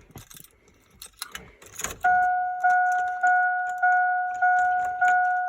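Keys jingling and clicking at the 2001 Chevy Tahoe's ignition. About two seconds in, the truck's warning chime starts: evenly repeated dings a little under two a second, each fading before the next, of the kind a GM truck sounds when the key is in the ignition with the door open.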